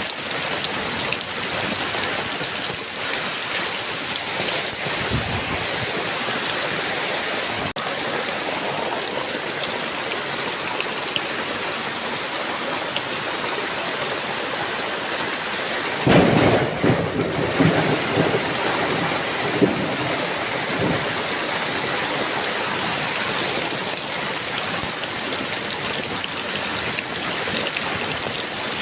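Heavy rain falling steadily, with a sudden loud thunderclap a little past halfway that rumbles on for several seconds.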